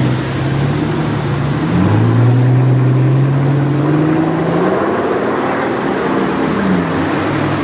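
High-performance car engine accelerating: its note holds steady for a second or two, then climbs for a few seconds before fading and dropping in pitch near the end.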